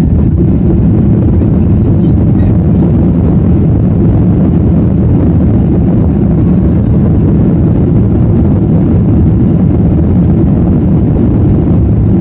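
Boeing 737-800's CFM56-7B jet engines at takeoff thrust heard from inside the passenger cabin: a loud, steady, low rumble.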